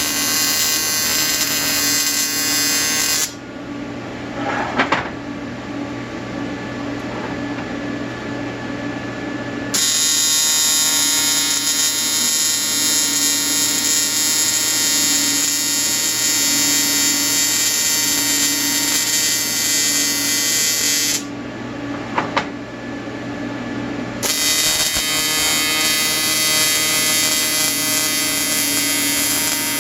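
Electric welding arc buzzing steadily. The arc stops twice for a few seconds, first about three seconds in and again near twenty-one seconds, leaving a lower machine hum with a click or two.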